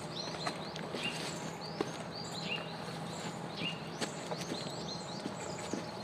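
Small birds chirping: short, high, curved notes repeating several times a second over a steady background hiss, with a few sharp clicks.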